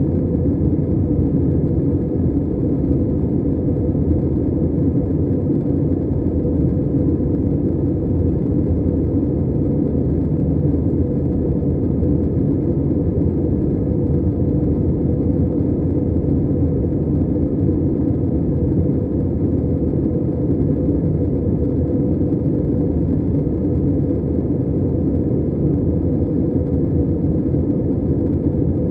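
Steady low rumble of jet engine and airflow noise inside the cabin of an Airbus A320 airliner, holding an even level without rising or falling.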